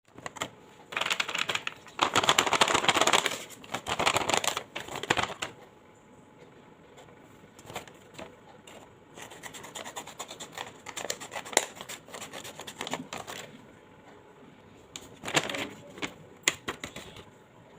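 Hands handling a squishy pack's plastic packaging, crinkling and scratching it in loud bursts for the first few seconds, then quieter scattered rustles and clicks, with another loud burst near the end.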